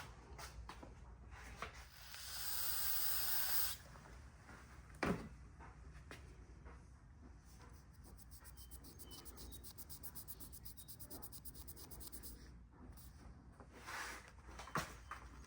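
Hand work at an engine bench: a steady hiss lasting about a second and a half, a single sharp knock, then light rubbing and scraping against metal parts.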